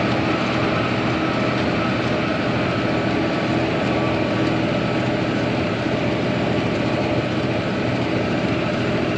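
New Holland 8770 tractor's diesel engine running steadily as the tractor drives along, at an even level throughout.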